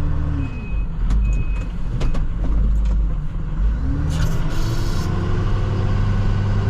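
Plow truck's diesel engine revving up and easing off twice as it maneuvers. A short beep comes about a second in, and a brief hiss about four seconds in.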